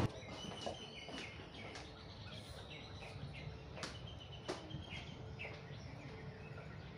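Quiet open-air ambience with scattered short, high bird chirps and a few faint sharp clicks.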